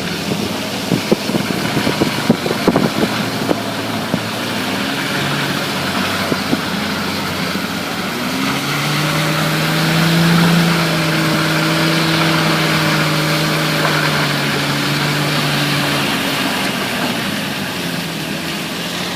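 Vehicle engines running, with a burst of sharp crackles and pops in the first few seconds. Then an engine holds steady revs for about seven seconds before easing off.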